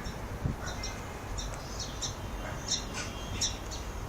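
Birds chirping: a string of short, high chirps over a steady low background rumble.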